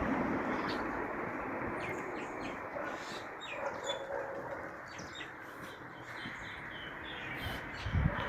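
Small birds chirping in short, high calls scattered through the middle, over the noise of a passing vehicle that fades away at the start.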